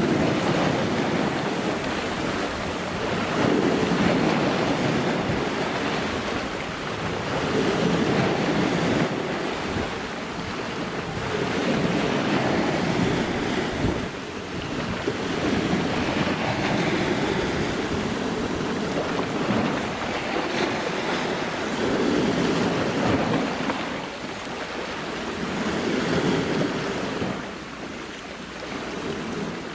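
Waves washing in, rising and easing every few seconds, with wind buffeting the microphone.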